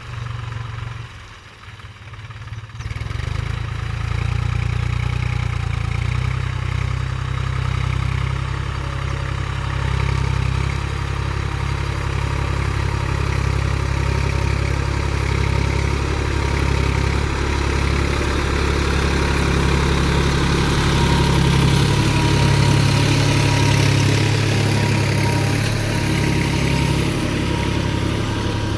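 New Holland 4710 tractor's diesel engine running steadily. It is quieter for the first couple of seconds, then comes up louder about three seconds in and holds there.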